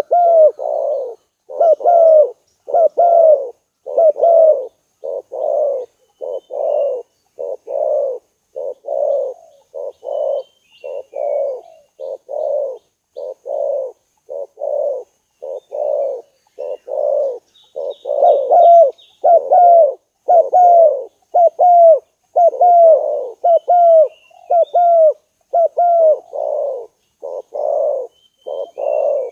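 Spotted dove cooing, a steady unbroken run of short low coos at about one to two a second, some ending in a slight downward slide. It is a tekukur call recording used to lure the birds.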